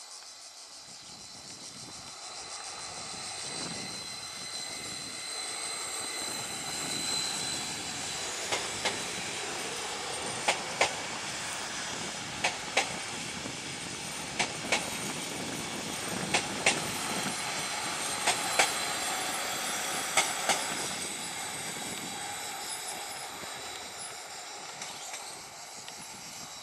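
A Stadler FLIRT electric multiple unit running past, its rumble swelling and then fading. Each bogie's two axles click over a rail joint, giving seven pairs of sharp clicks about every two seconds.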